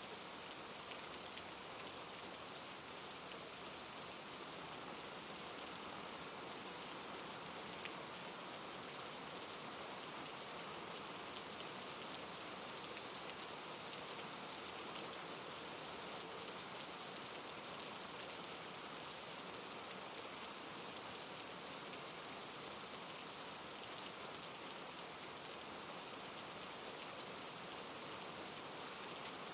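Steady soft rain falling, an even patter with scattered single drops ticking, one slightly louder drop about two-thirds of the way through.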